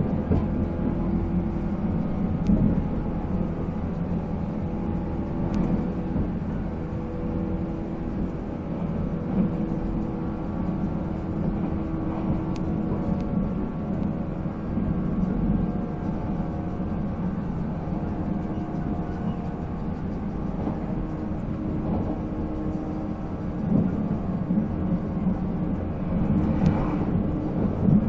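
485-series electric train running on the line: its MT54 traction motors and gearing give several steady whining tones over the rumble of wheels on rail, with a few faint clicks.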